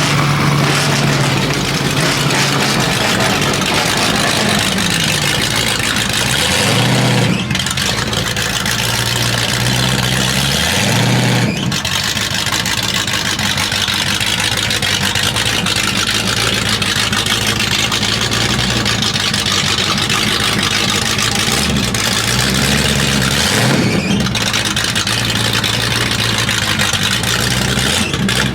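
Loud car engine running and revving, its pitch climbing in long pulls that cut off sharply twice, with more rises and falls near the end.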